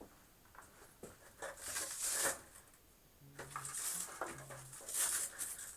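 Velcro cable straps being ripped apart and pressed shut, a few crackly rips about a second apart, the loudest about two seconds in and near the end.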